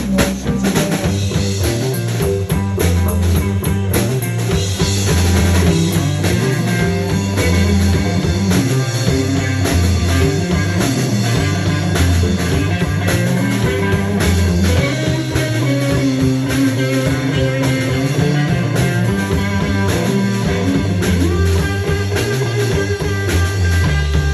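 Rock music with electric guitar over bass and drums, playing steadily.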